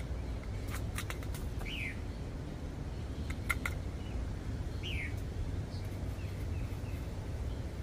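A bird calling with short falling chirps, twice clearly and a few times faintly, over a steady low rumble. A few sharp clicks come about a second in and about three and a half seconds in, the last being the loudest moment.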